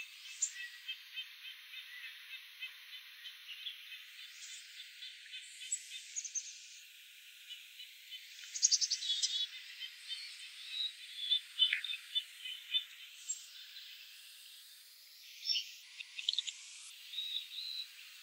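Small birds giving short high chirps and call notes, scattered and irregular, over a faint hiss, with a steady rapid ticking of about four a second through the first half.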